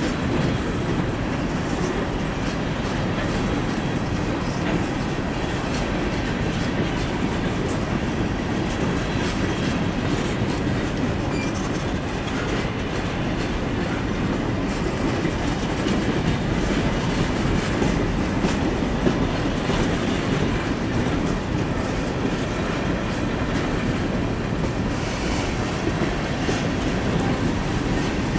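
Loaded freight train of steel hopper cars rolling past close by: a steady rolling noise of steel wheels on the rails, with scattered clacks and knocks as the wheels pass over rail joints.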